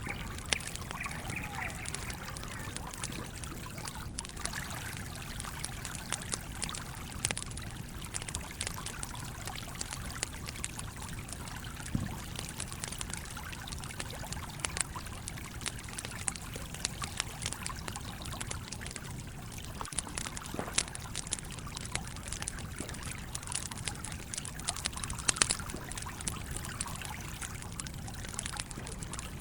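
Stream trickling steadily, with scattered sharp snaps and pops from a crackling campfire.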